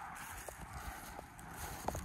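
Footsteps on dry ground, a few light scattered ticks, over a faint steady outdoor hiss.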